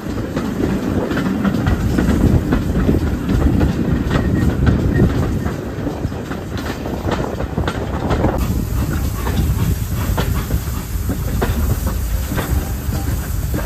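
Steam-hauled train running along the line: a steady rumble from the wheels, with the clickety-clack of wheels passing over rail joints.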